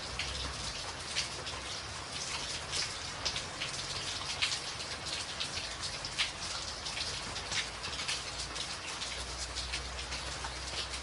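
Steady rain falling on a tin roof, with many sharp individual drop hits standing out from the constant patter. A low rumble sits underneath, swelling again near the end.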